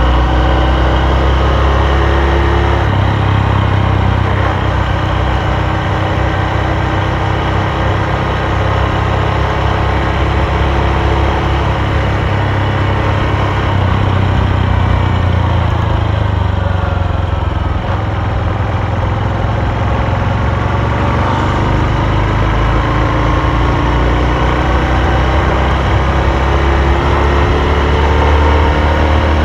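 Honda Super Cub's single-cylinder four-stroke engine running under way, its pitch climbing with speed, dropping about three seconds in as it shifts, falling off in the middle and climbing again near the end.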